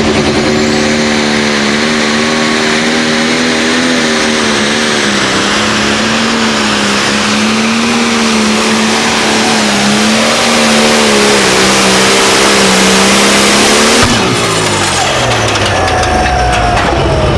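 High-powered tractor engine held at high revs, its pitch wavering slightly, for about fourteen seconds. Then the throttle comes off and the engine winds down with a falling pitch.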